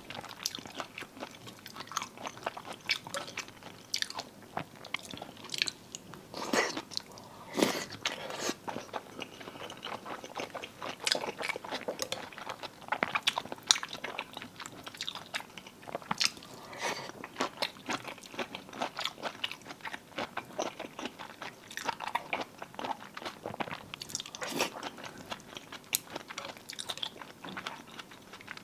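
A person chewing cold marinated raw seafood close to the microphone, with many irregular sharp, wet mouth clicks and bites.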